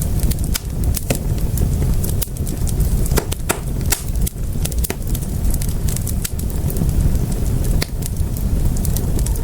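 Wood fire in a fireplace crackling, with many irregular sharp pops and snaps, several a second, over a steady low rumble of the flames.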